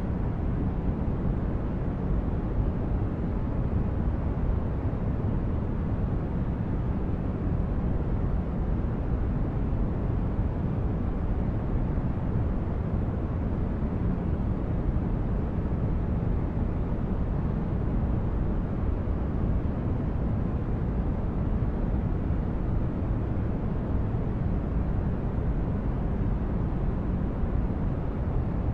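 Steady white-noise track for sleep, a deep, even rushing noise weighted toward the low end, unchanging throughout.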